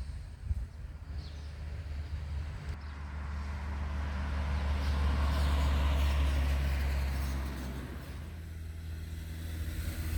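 A motor vehicle passes on the road, its engine hum and tyre noise rising to a peak about halfway through and then fading away.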